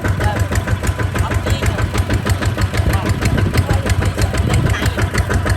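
Kubota tractor's diesel engine running steadily, its firing pulses coming as an even, rapid beat of about eight or nine a second.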